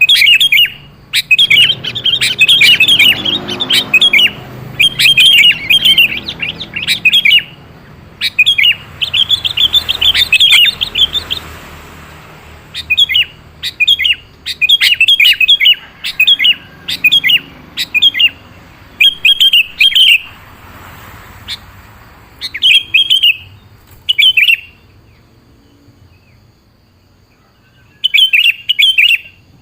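Sooty-headed bulbul (kutilang) singing: repeated phrases of rapid chirps, each a second or two long, with short pauses between them and a longer pause near the end before one last phrase.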